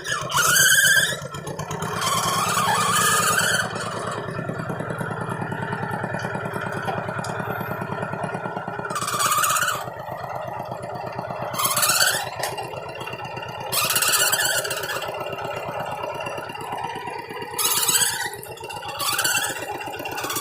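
Tractor engine running steadily with a fast, even beat. About six short, louder high-pitched squealing bursts break in every few seconds.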